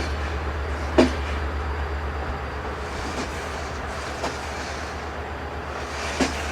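Passenger train wheels rolling on rails with a steady low rumble, clacking over rail joints: a sharp clack about a second in, fainter ones around three and four seconds, and another near the end.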